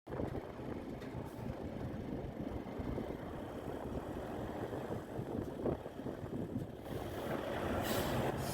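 A truck engine running steadily at idle, a low, even rumble, with a hiss building near the end.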